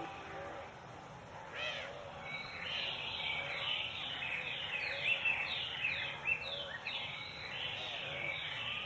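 Wild birds calling: a quick series of short, high, downward-sliding chirps, two or three a second, with fainter lower calls beneath.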